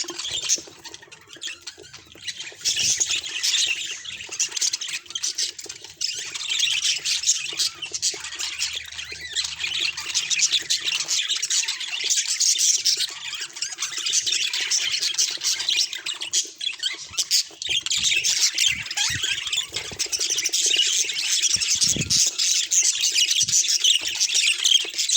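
Budgerigar warbling: a continuous, rapid chatter of high chirps and squawks.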